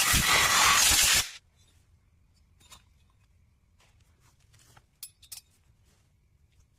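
Loud spraying hiss that cuts off about a second in, then a few faint clicks and taps, two of them close together near the end.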